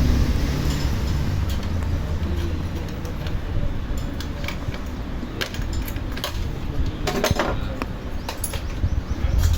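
Scattered metallic clinks and taps of hand tools and engine parts being handled, with a cluster of them about seven seconds in, over a low rumble that is strongest in the first couple of seconds.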